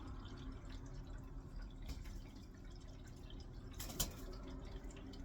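Quiet room with a low steady hum, scattered faint ticks, and one sharper click about four seconds in.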